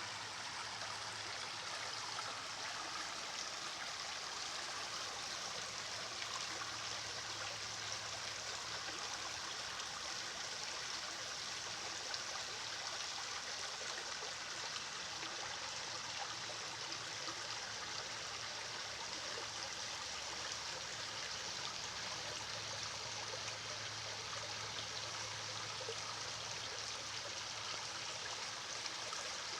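Running water flowing steadily, as of a stream, an even rushing hiss with no breaks.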